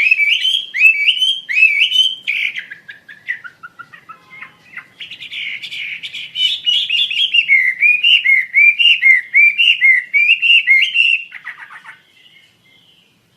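Songbird sold as 'Wambi Asia' singing loudly: series of looping, swooping whistled notes at about three a second, with a lower, broken run of notes between the two series and a quick downward sweep before the song fades out near the end.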